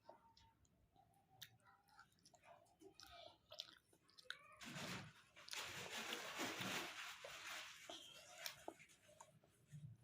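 Faint mouth sounds of someone chewing momos (steamed dumplings), with small wet clicks, and a louder stretch of noise in the middle lasting about three seconds.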